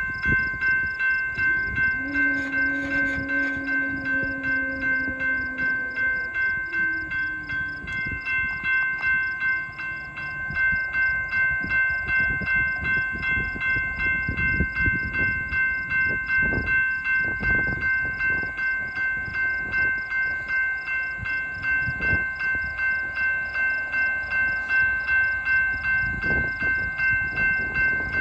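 A railroad crossing bell dings steadily, about one and a half strokes a second. A BNSF freight train's diesel horn sounds about two seconds in for some four seconds and slides down in pitch as it fades. Low clanks and rumble of the passing train come in later.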